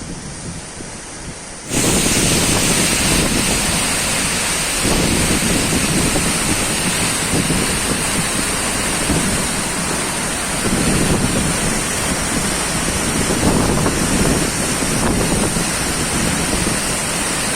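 Waterfall swollen by rain, a heavy steady rush of falling water that becomes much louder about two seconds in.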